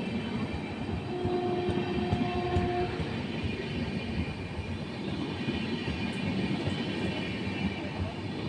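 Train running on the tracks, with a steady rumble and wheel clatter. A horn sounds once, held for about two seconds, starting about a second in.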